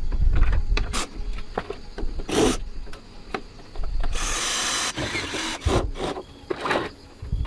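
Hand work on metal parts: a string of knocks, clicks and scraping, with a short hiss about four seconds in.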